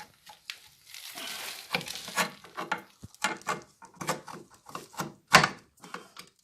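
A run of sharp metal knocks and clicks, uneven in spacing, with one loud knock near the end, from work on a drum brake assembly as the brake shoes and return springs are fitted.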